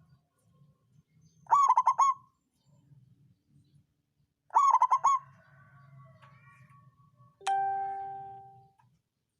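Zebra dove (perkutut) cooing: two short phrases of quick, rippling notes. Near the end, a single bell-like ding rings out and fades.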